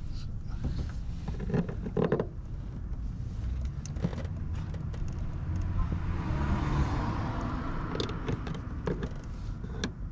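Light knocks and clicks of metal parts being handled and shifted into place, with a scraping rub about six to eight seconds in, over a low rumble.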